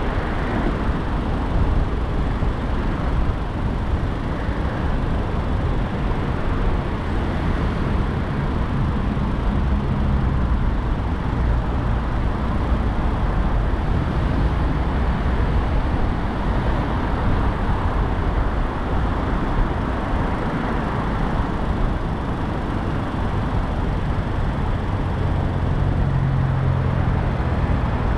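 Steady road noise of a car driving in city traffic: a low tyre and engine rumble, with a low hum swelling briefly twice.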